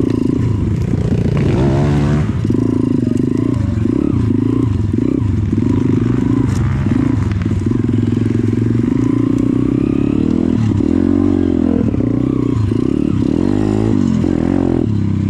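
Dirt bike engine running under the rider on a rough forest track, its pitch rising and falling over and over as the throttle is opened and closed.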